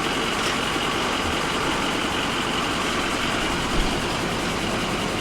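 Truck engine idling steadily, with a faint steady high whine over it.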